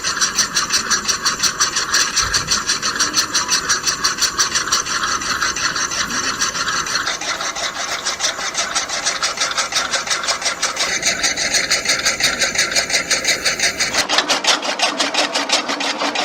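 A small machine running with a fast, even rasping clatter, its sound changing abruptly about seven, eleven and fourteen seconds in.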